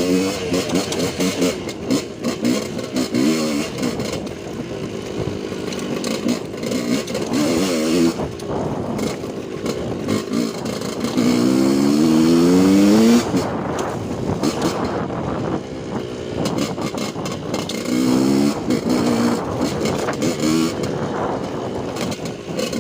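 Suzuki RM125 two-stroke single-cylinder dirt bike engine being ridden, revving up and down again and again, with one long climb in revs about halfway through.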